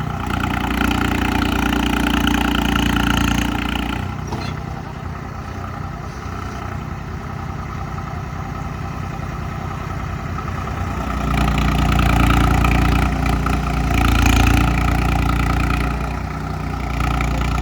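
Diesel tractor engines pulling under load in a tractor tug-of-war. They rise for about four seconds, drop back to a lower, steadier note for several seconds, then rise again for about five seconds and ease off near the end.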